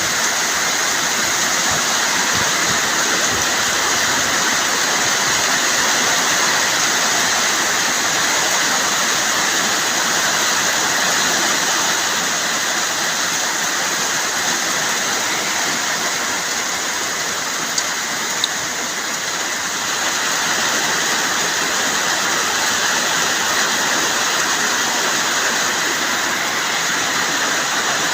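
Rain falling steadily, a dense even hiss of water with no let-up, with a couple of faint ticks around eighteen seconds in.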